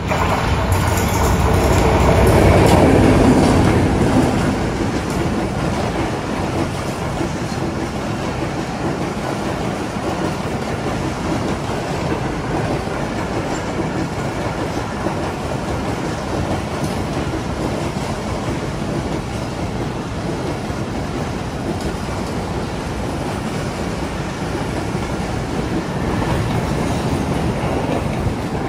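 Passenger express train passing at speed, its coaches rolling by in a steady rush of wheel-on-rail noise. It is loudest about three seconds in.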